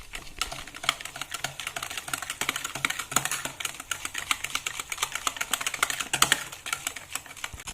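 A utensil beating butter and powdered sugar in a bowl by hand, tapping the bowl in a rapid run of sharp clicks, several a second, that eases off near the end.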